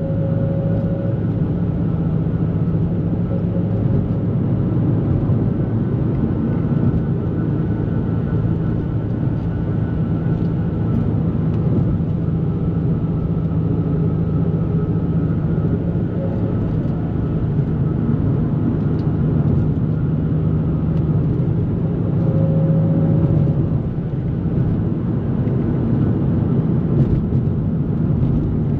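2004 Nissan 350Z's VQ35DE V6 engine droning steadily while driving, revs holding fairly even, over road noise.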